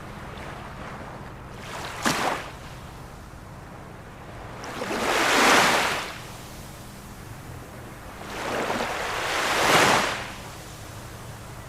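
Ocean waves washing in: a short surge about two seconds in, then two larger waves that each swell and fade over about two seconds, over a steady hiss of surf.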